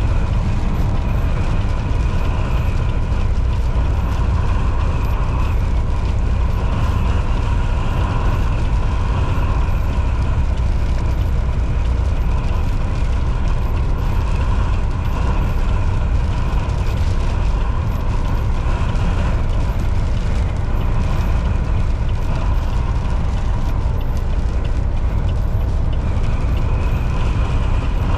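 Volvo VNL 760 semi truck cruising at highway speed: a steady, deep engine drone mixed with road noise, with no change in pitch or loudness.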